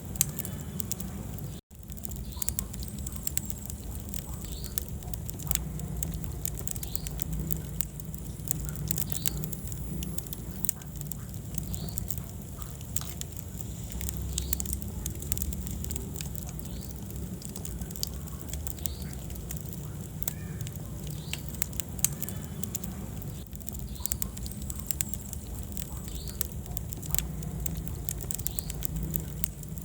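Wood fire burning in a fireplace: dense crackling and sharp pops over a steady low rumble of the flames. The sound cuts out for an instant about two seconds in.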